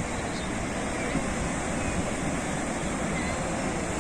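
Sea surf washing steadily on the shore, a continuous even rush of breaking waves.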